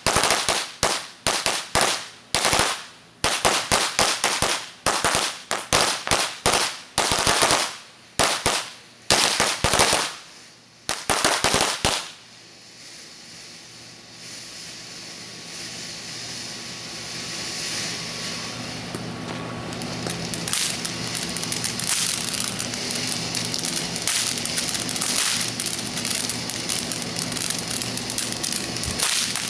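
Strings of firecrackers going off in rapid clusters of sharp bangs for about twelve seconds, the packs of firecrackers fused together in the base firing one after another. The bangs then stop and a steady hissing noise builds and carries on.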